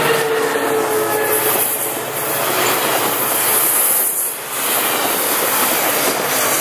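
Coaster commuter train passing close by: a horn note from the diesel locomotive trails off within the first second. Then comes the steady rumble and wheel clatter of the bilevel coaches rolling past.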